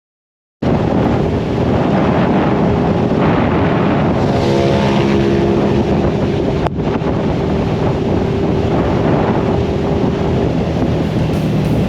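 Motorcycle engine running under way, with heavy wind rushing over the microphone. The sound cuts in abruptly after a half-second of silence.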